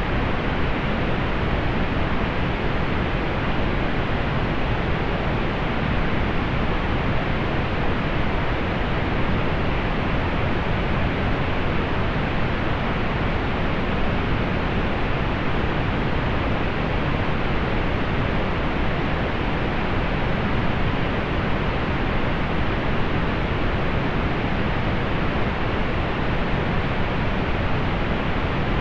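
Steady pink noise: an even, unchanging rush with little high hiss.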